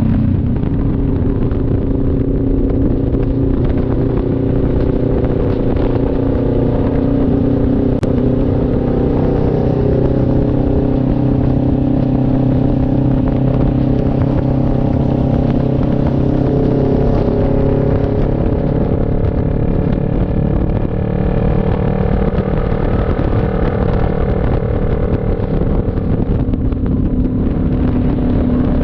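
CF Moto NK400 two-cylinder motorcycle engine running steadily, its pitch shifting a little as the revs change, with one short click about eight seconds in.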